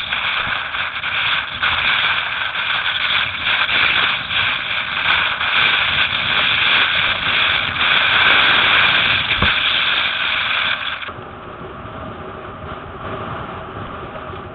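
Steady rushing noise of strong gusty wind and water, which drops in level about eleven seconds in.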